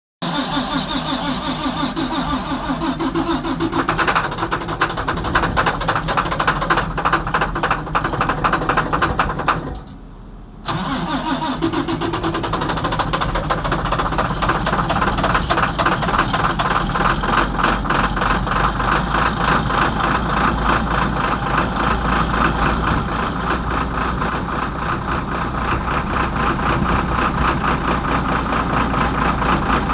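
A 2012 IC RE school bus's diesel engine cold-starting in freezing cold after sitting for a week: it is cranked and catches, then runs with a fast, even clatter. The sound briefly drops away about ten seconds in, then runs on steadily.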